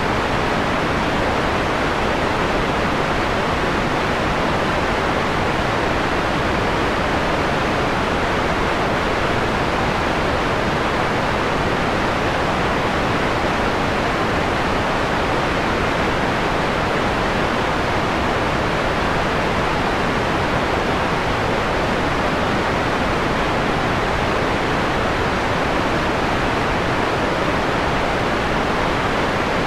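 Steady synthetic white noise, filtered to a mellower hiss with its top end rolled off. It is even and unchanging throughout.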